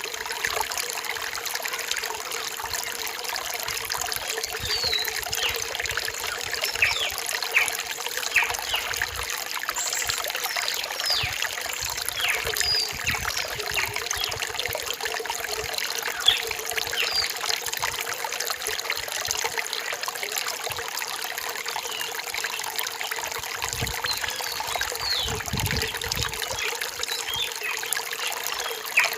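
A rainforest stream trickling and splashing steadily over rocks. Birds call over it in short, high, falling chirps scattered throughout.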